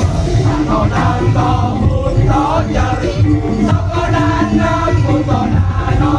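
Live daul Madura street music: a loud percussion ensemble with a heavy, steady drum beat and a wavering melody line above it.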